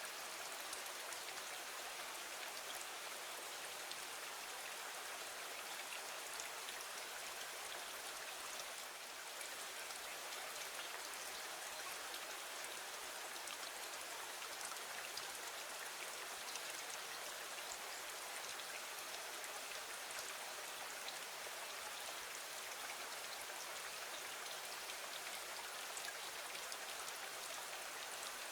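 Steady rain falling against a window: an even hiss with scattered faint drop ticks.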